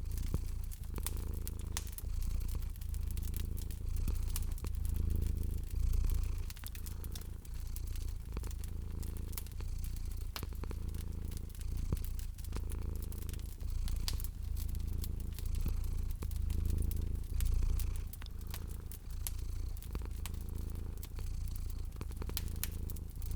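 A domestic cat purring, low and continuous, swelling and fading in a slow rhythm. Over it a wood fire crackles with frequent sharp pops.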